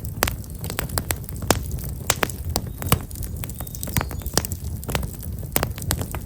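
Wood fire of black locust logs crackling, with irregular sharp pops several times a second over a low steady rumble.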